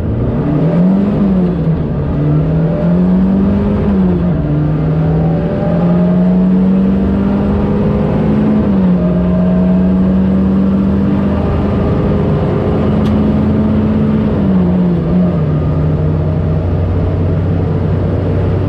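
Rally car engine heard from inside the cabin, accelerating and shifting up through the gears. The pitch climbs and drops back at each upshift, about one, four, nine and fifteen seconds in, then holds steady.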